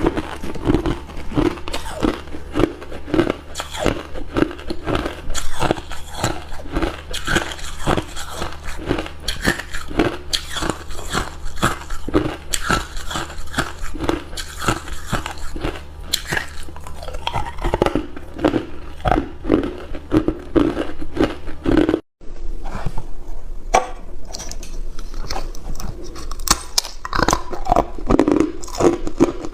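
Hard ice cubes being bitten and chewed close to the microphone: a continuous run of irregular, sharp crunches, with a brief cut about two-thirds of the way through.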